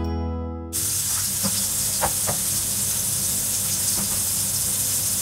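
Background music cuts off under a second in, giving way to chicken tikka skewers sizzling in a lightly oiled frying pan: a steady hiss with a few small pops.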